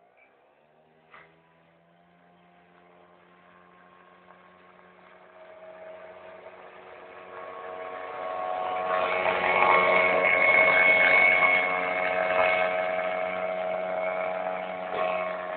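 Small boat motor on a homemade plywood boat running at a steady pitch, growing louder until about ten seconds in as it comes closer, then easing off a little.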